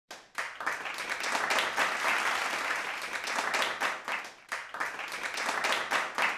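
A crowd applauding, a dense patter of many hands clapping that starts suddenly and dips briefly about four seconds in.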